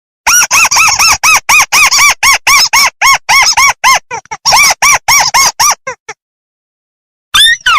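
Rice-field crake (burung tikusan) call played loudly as a lure: a fast run of short notes that each rise and fall, about three a second, broken by two pauses, then one note sliding downward near the end.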